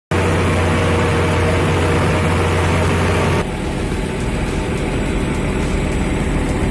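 Heavy diesel engine of earth-moving machinery running steadily with a strong low hum. About three and a half seconds in, the sound changes abruptly to a slightly quieter, rougher engine sound.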